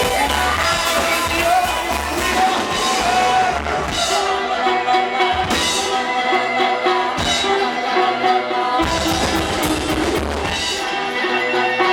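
A live band playing an instrumental passage: drum kit with bass drum and snare under held, pitched instrument notes. The deep bass drops out for a few stretches in the middle.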